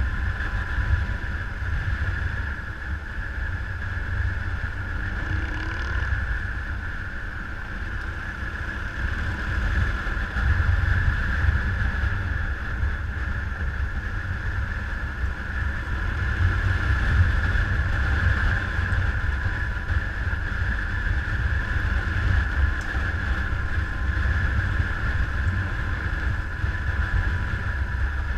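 Motorcycle under way: steady engine and riding noise under a heavy, fluctuating wind rumble on the microphone.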